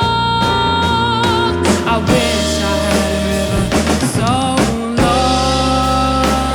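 Jazz band playing, with drums, bass, piano and guitar; a long sung note with vibrato is held at the start and then gives way to the band.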